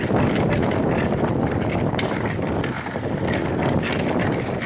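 Steady rumble of wind and rolling noise while riding a bicycle, with a few light clicks and rattles.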